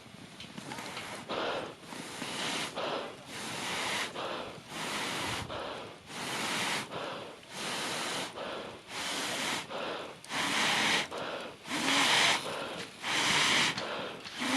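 Puffs of air blown into a campfire, about one a second and growing louder, each a short rushing hiss as the fire is fanned with breath.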